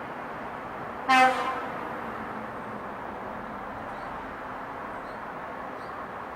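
A single short vehicle-horn toot about a second in, over a steady background hiss of wind in a residential street.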